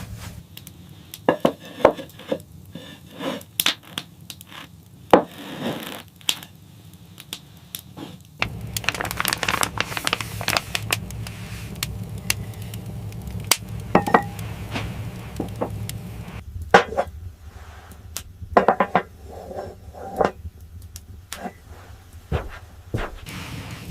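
Irregular knocks, scrapes and crinkling handling sounds over a low steady background hum.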